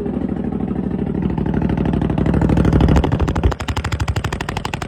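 Freshly cold-started Honda off-road engine running, at first on a fast idle. About three seconds in the revs drop and it settles into a slower idle with distinct, evenly spaced firing pulses.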